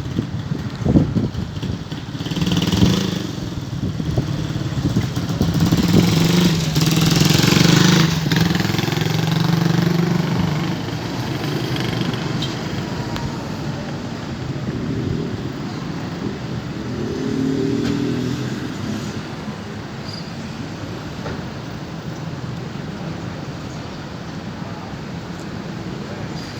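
Boeing 737-400 on final approach passing over, its jet engines swelling to a loud peak with a wide hiss about seven seconds in and then slowly fading, over steady street traffic.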